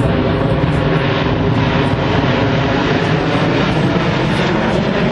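Airplane engine noise from an aircraft flying at an air show, loud and steady.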